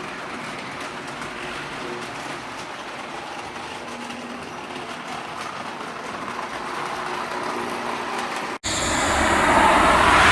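O gauge model train running on its track, a steady rolling rattle with a faint motor hum. About eight and a half seconds in it cuts off abruptly to a loud whoosh.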